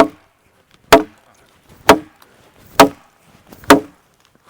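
A machete being batoned into wood: its spine is struck five times, about once a second, each a sharp knock with a brief ring, while a second person holds the blade against the wood.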